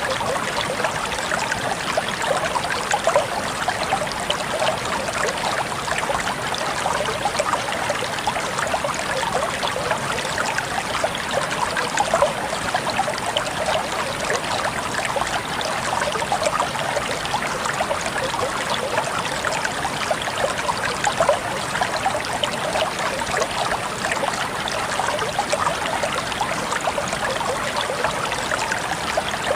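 Shallow stream water flowing and babbling steadily, a continuous close gurgle with many small splashes.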